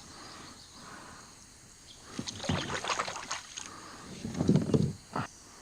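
Irregular splashing and knocking of water and gear around a kayak, a cluster of strokes from about two seconds in, loudest a little before the end.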